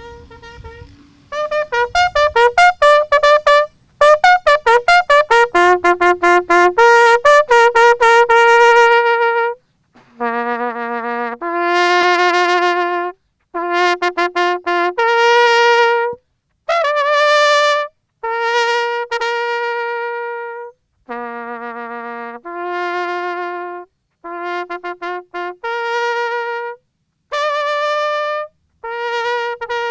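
A bugle call on a brass horn. It opens with a quick run of short notes, then moves on to long held notes on a few fixed pitches, with short breaks between them.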